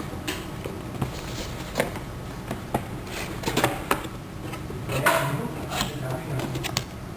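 Cardboard and plastic packaging of a phone box being handled and opened: scattered clicks and taps with a few short rustles.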